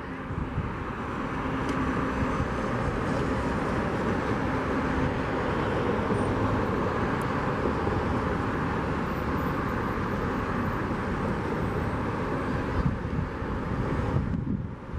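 Airbus A319 jet airliner's engines heard as it passes on landing: a steady rush of jet noise that builds over the first two seconds, holds, and drops away near the end.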